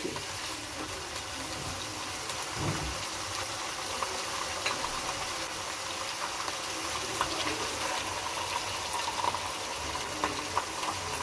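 Chicken pieces sizzling steadily in hot oil in a nonstick karahi, with a few light knocks from the spatula.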